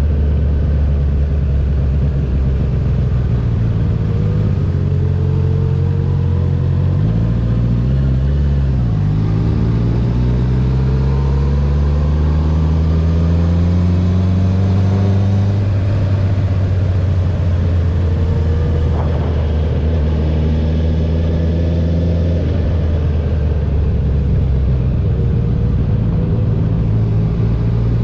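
Honda CB650R's inline-four engine running through an Akrapovic titanium full-system exhaust with the dB killer removed, under way. The note dips and recovers about eight seconds in, then climbs steadily in pitch for several seconds before dropping suddenly, as on an upshift, and runs on more evenly.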